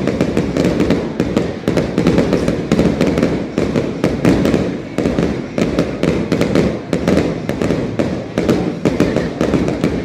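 Aerial fireworks going off in rapid succession: many sharp bangs and crackles a second over a continuous rumble, a busy stretch of the display.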